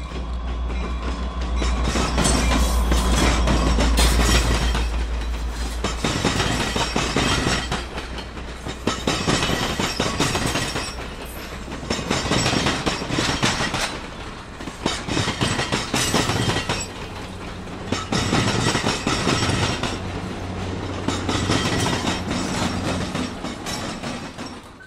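An EMD GP59 diesel locomotive passing close by, its engine giving a deep rumble for the first few seconds. Then the passenger cars roll past, wheels clicking over the rail joints, louder and softer as each car goes by.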